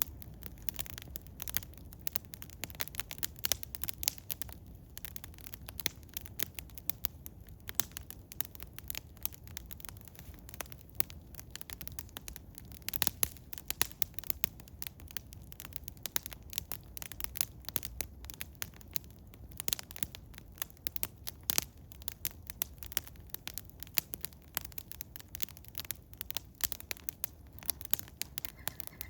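Eastern hemlock wood fire crackling: irregular sharp pops and snaps, some much louder than others, over a low steady rumble.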